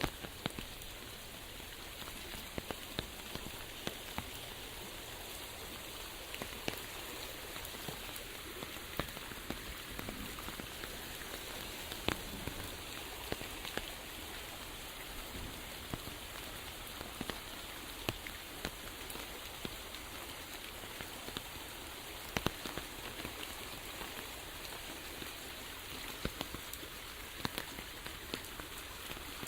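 Steady rain falling: a continuous hiss with many separate sharp drop impacts scattered throughout.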